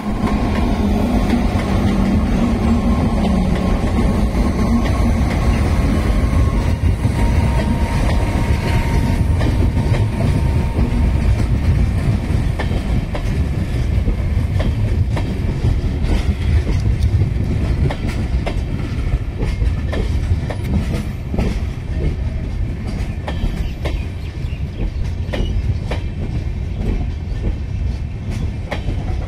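An Indian Railways electric locomotive passes close with a hum, then a long rake of LHB parcel vans rolls past. The vans make a steady rumble and repeated clickety-clack of steel wheels over rail joints.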